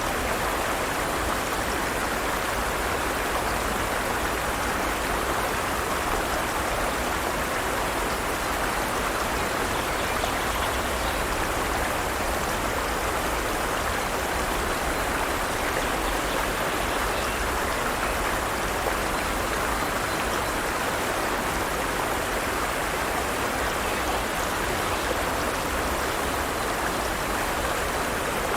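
Forest stream, water flowing and splashing over rocks in a steady, even rush.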